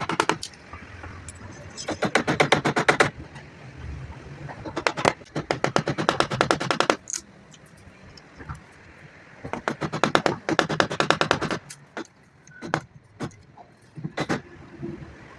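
A woodworking tool working wood in three bursts of rapid, evenly spaced rasping strokes, each lasting one to two seconds, with a few single knocks in the pauses between them.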